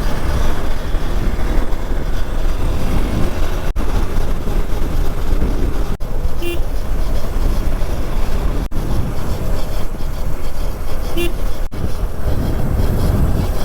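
Hero Xpulse single-cylinder motorcycle under way, its engine running under a heavy, steady rush of wind and road noise, with two short horn toots about six and eleven seconds in.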